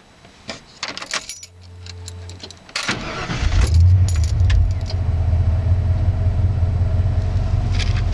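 Ford F-150 pickup: keys jingle at the ignition and a low hum comes on, then about three seconds in the engine cranks, catches and settles into a steady idle.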